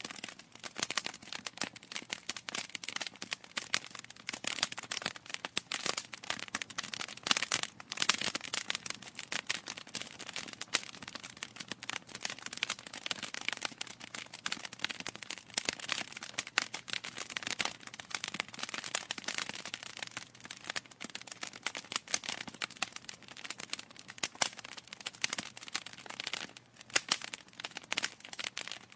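Wood fire burning in a fireplace: logs crackling and popping in a dense, irregular stream of sharp snaps, with no let-up.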